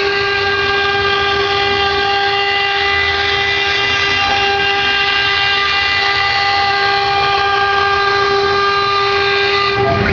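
CNC router spindle running at a steady speed while carving ceramic tile, giving a loud, unchanging high whine over a rough hiss.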